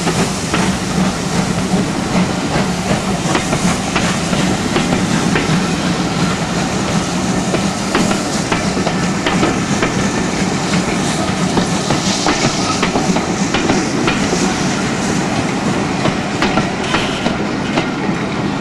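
Coaches of a steam-hauled passenger train rolling past close by, their wheels clicking over the rail joints in a steady rolling noise.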